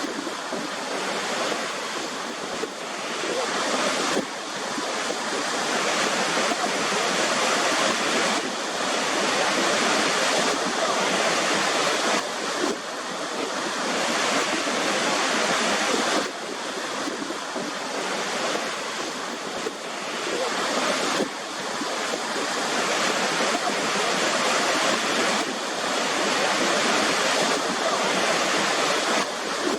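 Steady rush of water falling at a waterfall, with small sudden shifts in level every few seconds.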